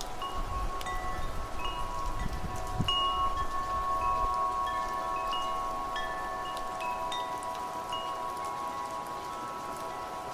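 Metal wind chimes ringing in the wind: many tones struck at random, overlapping and ringing on for several seconds. A gust of wind rumbles beneath them for the first few seconds, then dies away.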